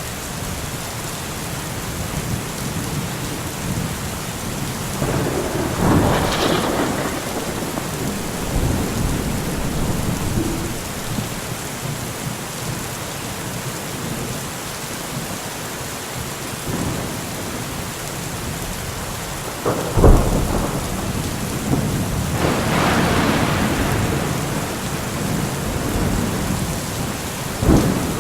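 Steady rain falling, with rolls of thunder: a rumble about five seconds in, a sharp crack about twenty seconds in, followed by a longer rumble.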